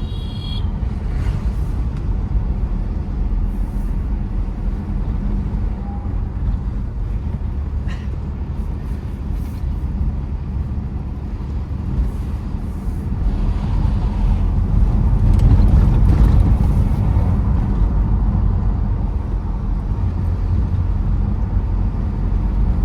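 Tata Safari Storme diesel SUV driving: a steady low engine and road rumble that swells louder for a few seconds about two-thirds of the way through.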